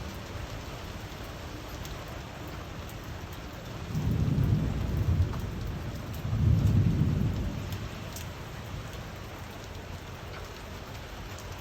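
Steady rain falling, with two low rumbles of thunder in the middle, each about a second and a half long, the second a little louder.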